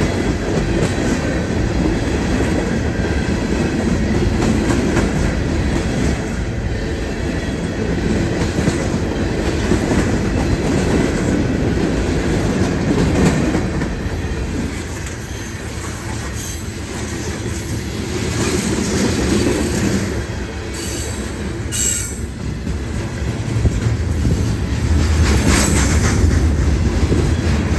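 A train passing close by, its wheels rumbling steadily over the rails, with brief high-pitched wheel squeals in the second half.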